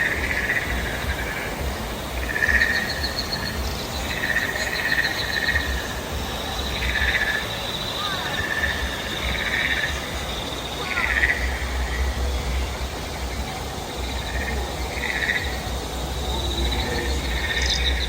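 Frogs croaking in short repeated calls, one every second or two, over a steady high insect trill and a low rumble.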